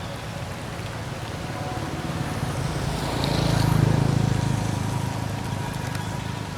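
A motor vehicle passing by: a low engine rumble that swells to its loudest about four seconds in, then fades.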